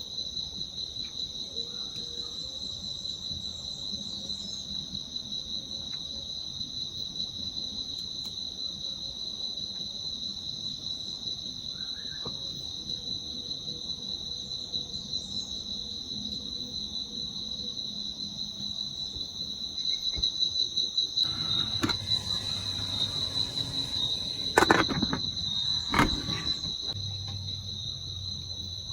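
Steady high-pitched insect chorus. About three-quarters of the way through, a spell of rustling breaks in, with two sharp knocks about a second apart.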